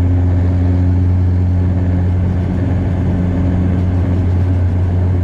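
Bombardier DHC-8 Q400's turboprop engines and propellers droning steadily inside the passenger cabin: a deep even hum with its overtones over a rush of noise.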